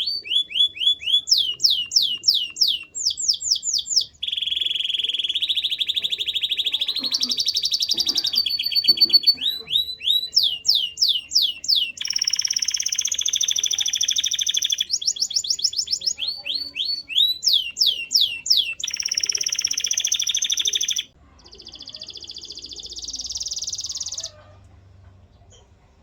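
Male canary singing a long song of rapidly repeated falling notes alternating with fast rolling trills, with no break until about two seconds before the end, when it stops.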